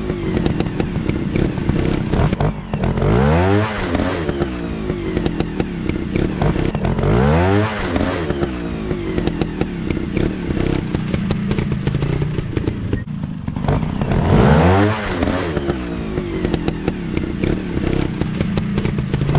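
Dirt bike engines revving hard: the engine note sweeps up sharply again and again, about every four seconds, over continuous engine running.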